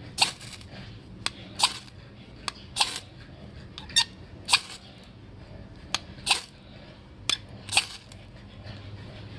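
Repeated short scrapes of a fire striker throwing sparks onto natural-fibre tinder, about a dozen strokes in loose pairs roughly once a second, while the tinder is close to catching.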